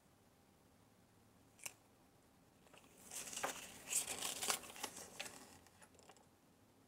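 Paper crinkling and rustling as a small folded flyer from a surprise egg is handled, after a single light tap.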